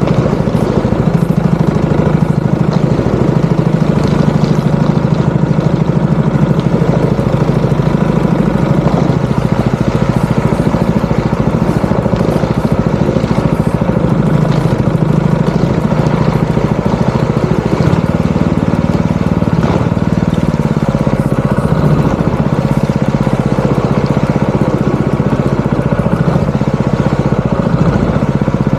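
Small duck-boat motor running steadily at cruising throttle, a loud even engine drone throughout.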